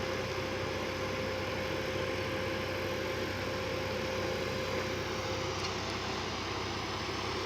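An off-road vehicle's engine idling steadily, with an even, unchanging hum.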